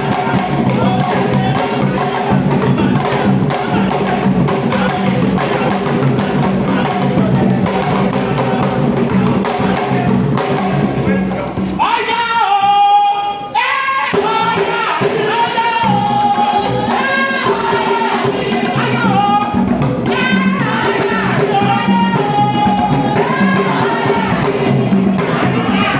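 Live percussion music with a busy, steady drum rhythm. About twelve seconds in the drums drop back and a lone voice sings a line, then voices sing together over the drums and rattling percussion.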